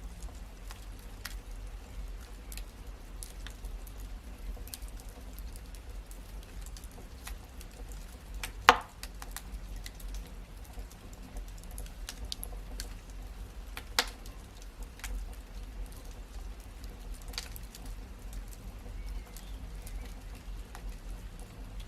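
Wood fire in a fireplace crackling, with irregular small snaps over a low rumble, and two loud pops, one about nine seconds in and one about fourteen seconds in.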